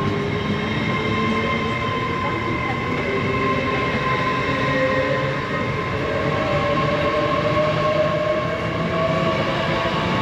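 A train running through the station: a steady rumble of wheels on rail with a sustained high whine and a tone that slowly rises in pitch.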